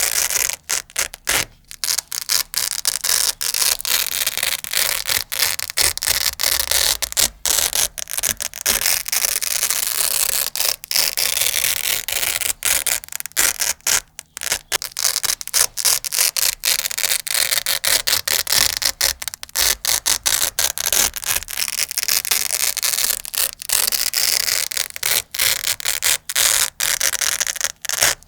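Velcro hook-and-loop fastener being pressed, rubbed and ripped close to the microphone: a continuous crunchy, scratchy crackle broken by many short pauses.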